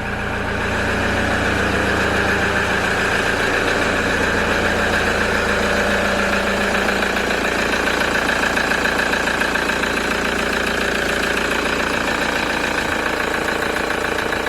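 2009 Toyota Hilux engine running steadily at idle, freshly started with a new alternator fitted and charging.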